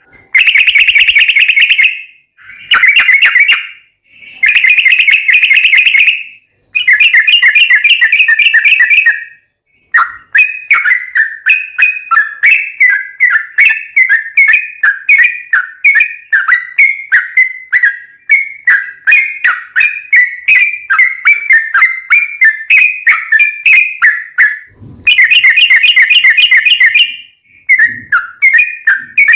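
Yellow-vented bulbul (trucukan) song, a long "ropel" of rapid, bubbly chattering notes. It comes in dense bouts of about two seconds, three of them near the start, then runs on as a long string of quick notes for about fourteen seconds before one more dense bout near the end.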